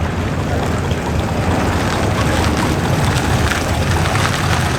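Car engines running at low revs, a steady low rumble under a haze of outdoor noise.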